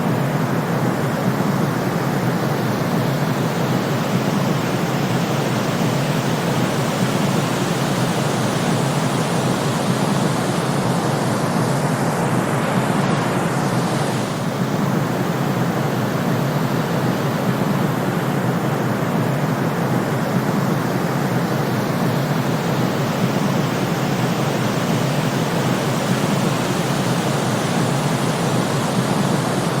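Steady synthetic white noise, an even, unbroken hiss weighted toward the low end, with no swells or breaks.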